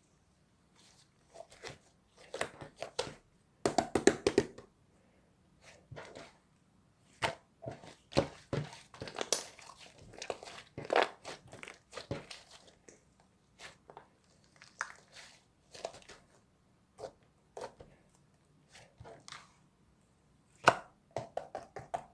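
Slime being kneaded and stretched by hand, giving irregular bursts of crackling, popping and crunching. The busiest stretches come about four seconds in and again around the middle.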